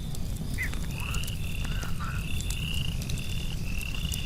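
A chorus of frogs calling in short repeated trills, one or two a second, over the scattered crackle of a campfire.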